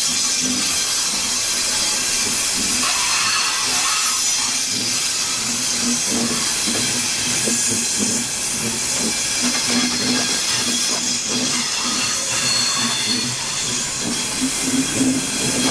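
Red double-deck regional train coaches rolling slowly past on the rails: a steady hiss of wheels on track with a low hum that swells and fades.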